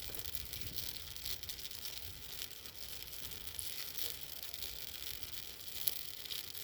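Bonfire of bird cages burning, a steady hiss full of small sharp crackles, one a little louder near the end.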